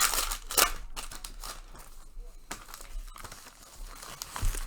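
Trading-card pack wrappers crinkling and tearing as packs are opened and the cards handled. The crinkling comes in sudden bursts, loudest in the first second and again near the end.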